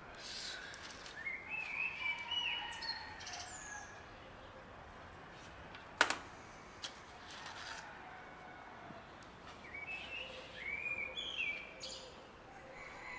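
Birds chirping in two short spells of quick rising and falling calls, with a single sharp click about six seconds in.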